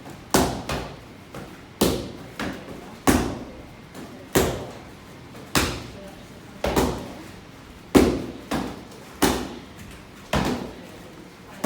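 Roundhouse kicks striking kick mitts, a sharp smack about once a second, often with a lighter knock just after, echoing in the dojo hall.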